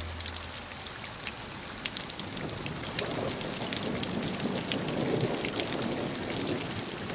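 Rain falling steadily with many sharp drop ticks, growing a little fuller about three seconds in.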